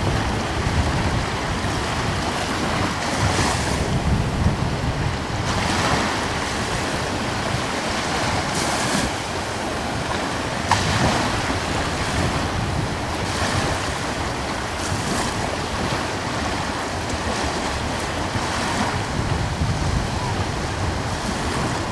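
Gentle ocean waves washing in, a swell every few seconds, with wind buffeting the microphone as a low rumble underneath.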